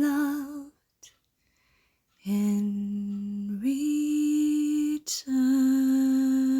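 A woman's voice singing a cappella in long held notes: a phrase dies away in the first second, then after a pause a low note, a step up to a higher one, a quick breath, and a final long note with vibrato.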